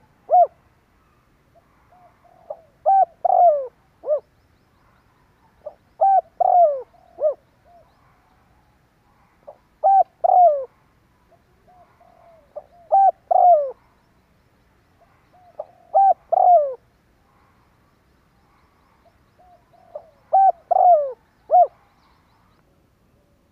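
Spotted dove cooing: a phrase of three or four coo notes repeated about every three and a half seconds, seven times over. It is the bird's crowing coo, played as a lure call to provoke wild doves.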